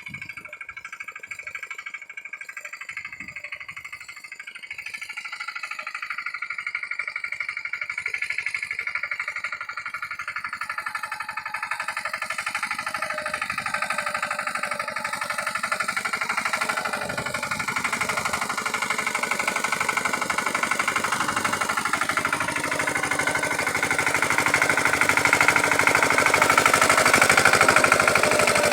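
Lombardini diesel engine of a Pasquali 946 tractor running with a rapid, even knock of firing pulses, growing steadily louder, loudest near the end.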